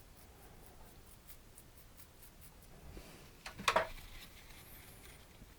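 Paintbrush working on a canvas: faint light taps and strokes, then one brief, louder scrape about three and a half seconds in.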